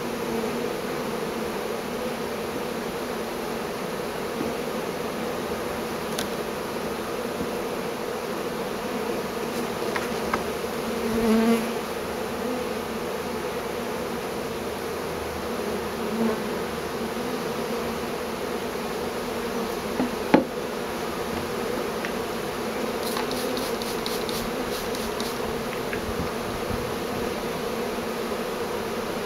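A very large honeybee swarm buzzing, a steady dense hum of many bees, with a single sharp knock about twenty seconds in.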